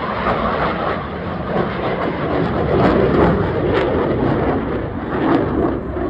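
Jet aircraft passing overhead: a loud, steady roar with some crackle through it.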